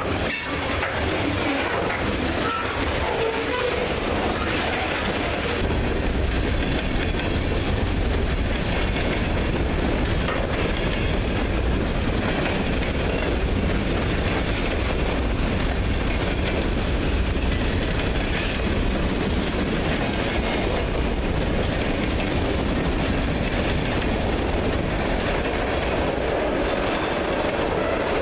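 Freight train cars (covered hoppers and tank cars) rolling past on the near track: a steady, loud rumble and clatter of steel wheels on the rails, unbroken throughout.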